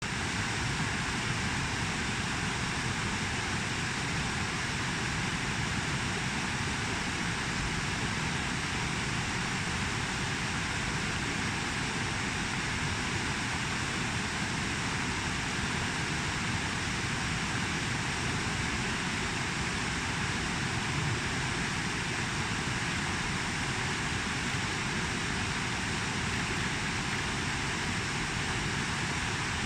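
Steady rushing of a swollen, fast-flowing creek after heavy rain.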